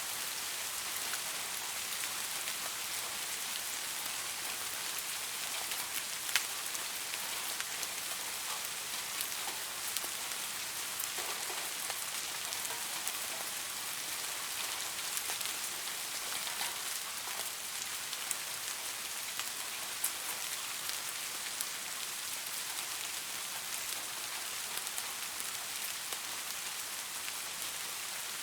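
Steady rain falling: an even hiss with scattered sharp drop ticks, one stronger tick about six seconds in.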